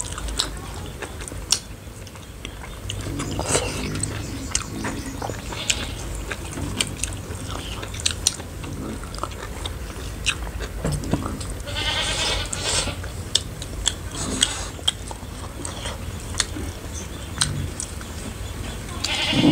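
Close eating sounds of people eating rice and buffalo-meat curry by hand: chewing and frequent small mouth clicks and lip smacks. An animal calls in the background about twelve seconds in.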